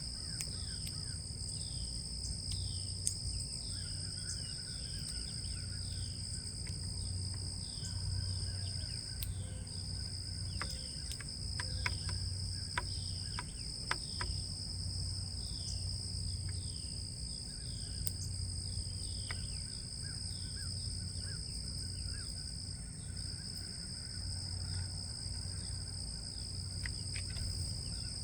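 A steady, high-pitched insect chorus drones on throughout. Over it, a bird repeats a short down-slurred chirp over and over, more than once a second. A few sharp clicks come in the middle.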